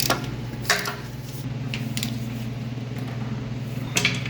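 A steady low mechanical hum, with a few short sharp metallic clicks from tool work on a bolt: one at the start, one under a second in, and one about four seconds in.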